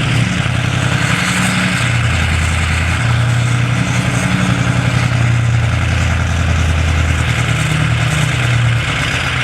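Diesel engine running just after a cold start in deep frost, its speed rising and falling slightly as it settles.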